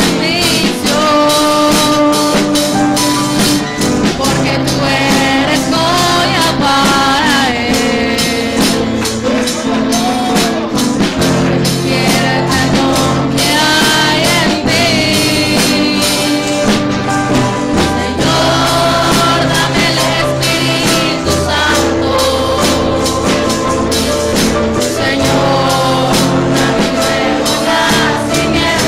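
Gospel song sung by a group with music accompaniment and a tambourine shaking along.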